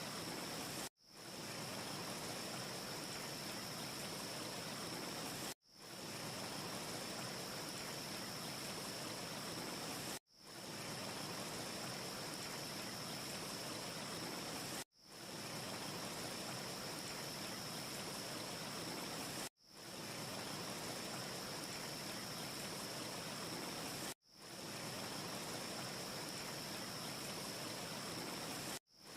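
Steady rushing hiss of a wind ambience, with a faint high whistle held through it and no audible fire crackle. About every four and a half seconds it cuts out for an instant and fades back in, the seam of a short repeating loop.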